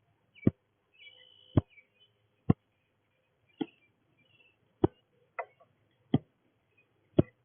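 Sharp knocks at a slow, uneven beat of about one a second, seven in all, loud and close to the microphone, with faint high bird chirps between them.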